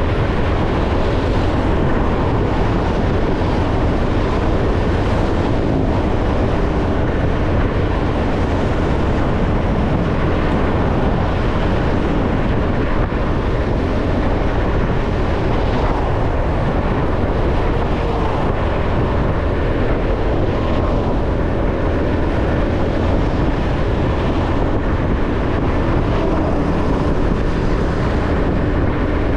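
Motorcycle underway on a road: a steady, unbroken rush of wind, engine and tyre noise, heaviest in the low rumble.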